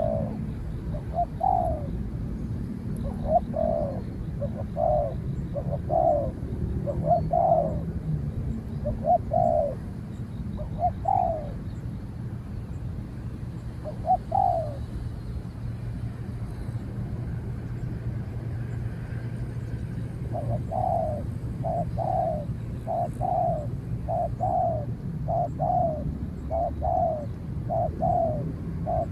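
Spotted doves cooing: short coo notes repeated at irregular intervals, then, about two-thirds in, a quick, regular run of coos. A steady low hum lies underneath.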